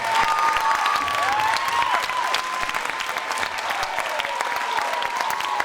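Audience applauding steadily, with a thin high held tone near the top of the clapping that bends and dips in pitch now and then.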